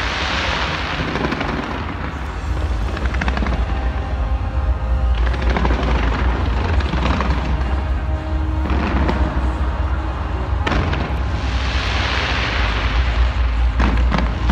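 New Year fireworks launched from the Taipei 101 skyscraper: a dense, unbroken barrage of bangs and crackling, loudest near the start and again near the end.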